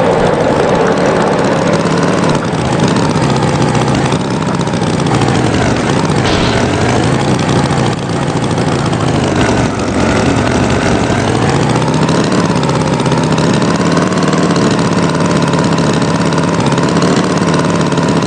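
Tractor engine sound effect running steadily, with its pitch swelling up and down a little now and then.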